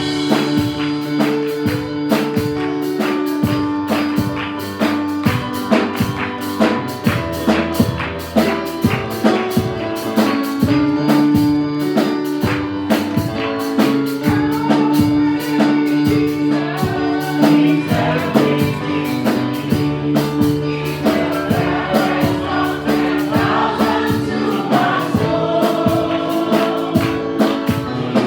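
Gospel praise-and-worship music from a band: held keyboard chords over a drum kit keeping a steady beat, with voices singing together, clearest in the second half.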